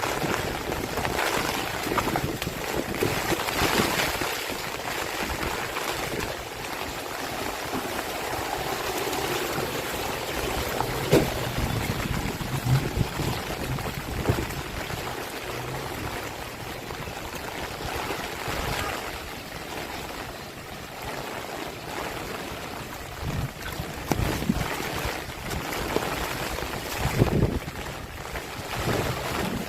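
Heavy rain falling steadily with wind gusting, the rush swelling and easing, and a few brief low thumps.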